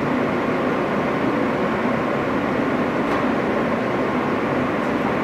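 Steady running noise of an R160 subway train heard from inside the car between stations: a dense, even rumble of wheels on rail and traction motors, with a couple of faint clicks partway through.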